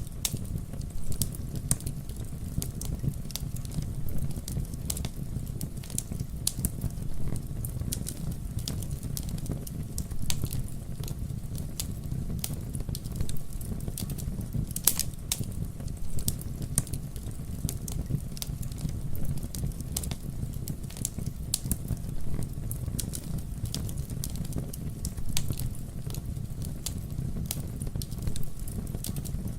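Wood fire crackling, with frequent sharp, irregular pops over a steady low rumble of the burning.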